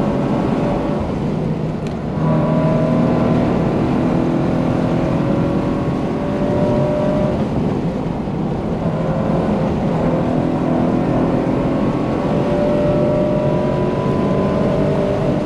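Subaru BRZ's flat-four engine pulling hard at high revs, heard inside the cabin, with its catless exhaust and Tomei header droning loudly over tyre and wind noise. The note dips briefly about two seconds in, then holds with a slowly sagging pitch that climbs again near the end.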